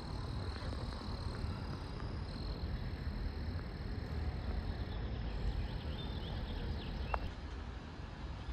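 Outdoor ambience: a steady low rumble with a few faint, short animal calls, one quick rising call about seven seconds in.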